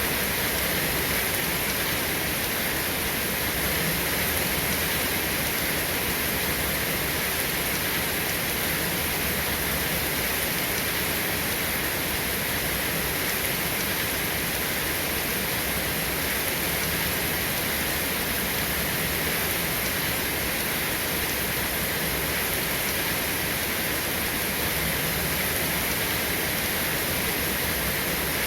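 Rain falling steadily, an even hiss that does not change, with no thunderclaps.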